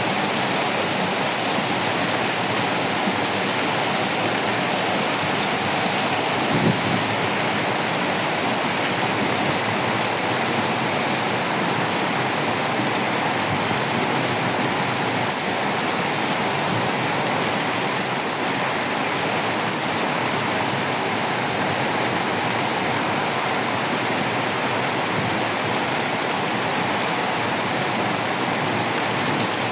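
Heavy tropical downpour: a steady, dense rush of rain, with one brief thump about seven seconds in.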